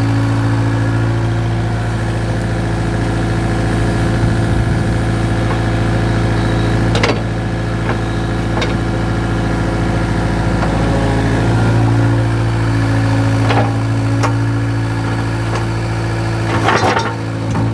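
An engine running steadily at idle, with a few sharp knocks over it, the loudest near the end.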